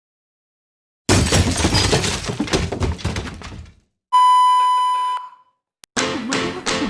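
A sudden loud crash, like something breaking, that dies away over about two seconds. Then a steady high beep of about a second, and near the end music with drums begins.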